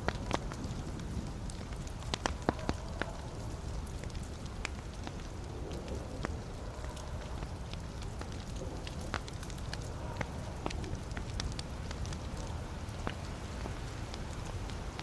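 Wood fire in a fireplace crackling: a steady low rumble of flames with frequent sharp pops and snaps from the burning logs, a few louder ones in the first few seconds.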